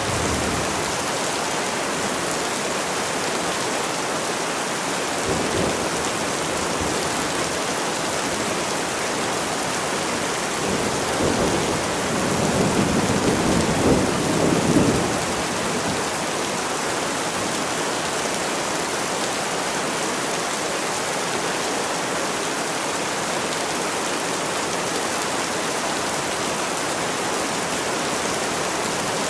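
Steady rain, with a short rumble of thunder about five seconds in and a longer rolling rumble from about ten to fifteen seconds.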